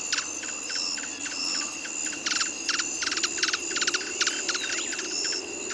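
Night forest chorus of calling animals: a steady high-pitched drone under repeated short bursts of rapid pulsed calls, several a second.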